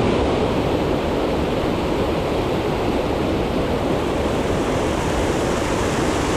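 Creek water rushing, a steady, even sound with no breaks.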